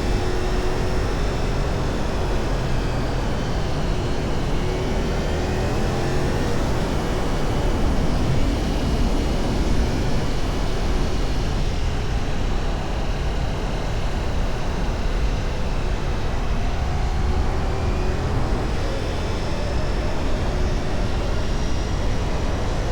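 Ducati Multistrada V4 engine running under way, its pitch rising and falling slowly with the throttle, over a loud, steady low rush of wind on the microphone.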